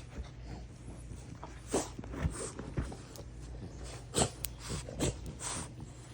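French bulldogs making several short snorts and snuffles, scattered through a few seconds, over a steady low hum.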